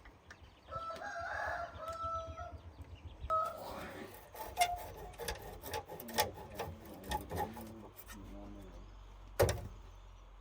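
A drawn-out bird call, heard twice in the first few seconds, over a low steady hum. Scattered clicks and knocks follow, with one sharp knock near the end.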